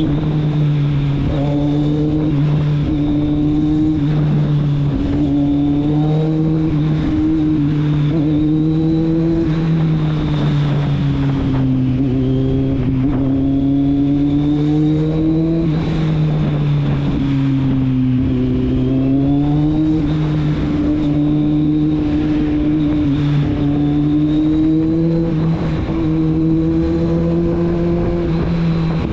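Kawasaki Z750's inline-four engine and exhaust running under way at a fairly even pace. The note wavers gently and twice eases off briefly before picking up again.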